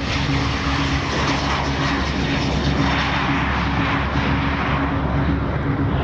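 P-8A Poseidon jet aircraft's engines running with a loud rushing noise that swells in the middle and turns duller near the end, as in a passing aircraft.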